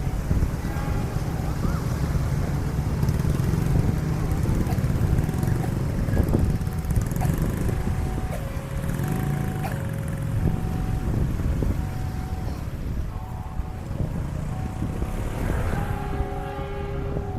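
Railway level-crossing warning alarm sounding a repeating two-note electronic tone. Under it runs a heavy, steady low rumble of passing vehicles.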